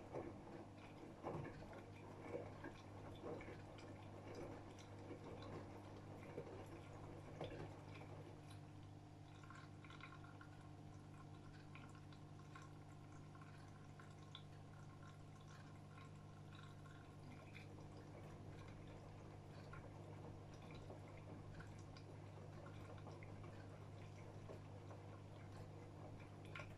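AEG Öko-Lavamat 76910 washing machine mid-wash, with water splashing and dripping in the drum over a steady low hum. The splashing is busiest in the first few seconds, and a faint high whine joins about a third of the way in.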